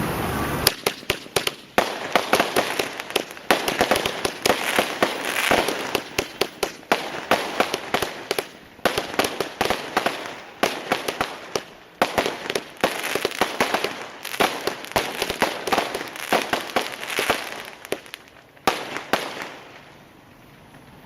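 Multi-shot fireworks cake (repeater box) firing a long, irregular string of sharp shots, several a second, with a few brief gaps, stopping shortly before the end; the box is one its owner calls misfiring.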